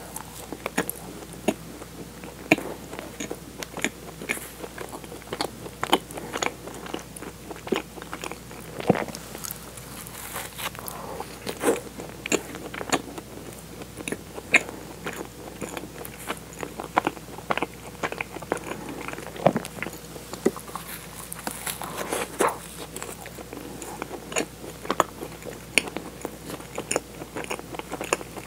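Close-miked biting and chewing of a soft, sugar-dusted cream-filled donut. There are many small, irregular mouth clicks throughout.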